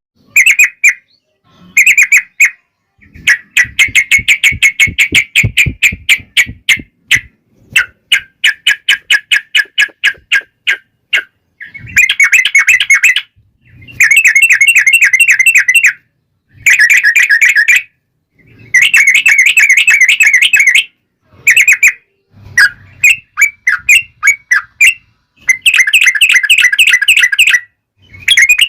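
Yellow-vented bulbul (trucuk) song played loud as a lure: rapid chattering phrases of repeated notes, in bursts of a second or two with short gaps between.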